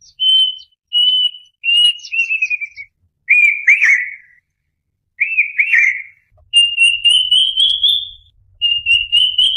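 A bird singing a series of clear whistled phrases. First come short level whistles, then paired downslurred notes, and near the end two longer whistles that rise in pitch.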